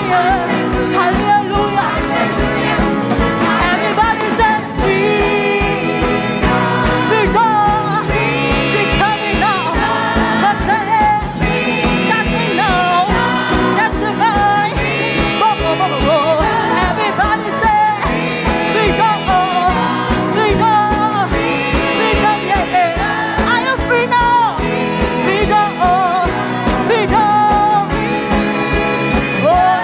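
Gospel choir and lead singer singing an upbeat song over a full band with a steady driving beat.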